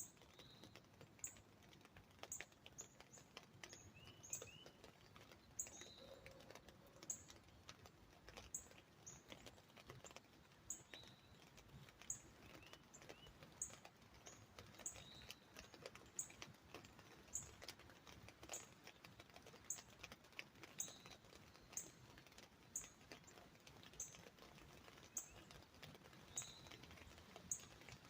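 Faint, sharp chip notes of a northern cardinal, repeated about once a second, over a light, sparse patter of drops on an umbrella as the rain dies away.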